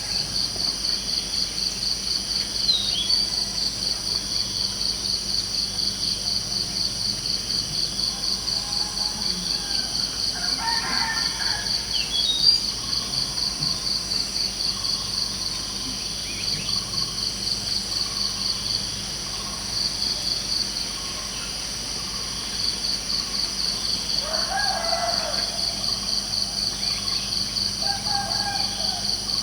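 Crickets chirping in a steady, rapid pulsing trill that pauses briefly about two-thirds of the way through. A few short bird chirps and two longer bird calls sound over it.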